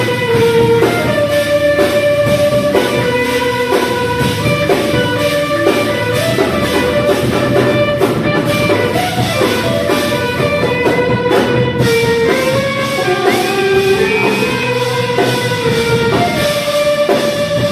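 Heavy metal band playing: distorted electric guitars carrying a held, shifting melodic line over fast drum kit.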